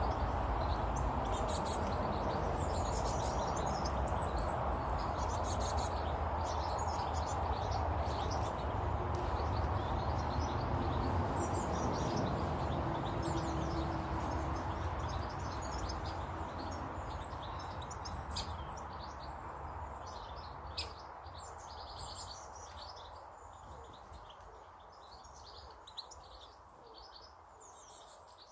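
Small garden birds chirping and twittering in many short calls, over a low rumbling noise that slowly fades away through the second half.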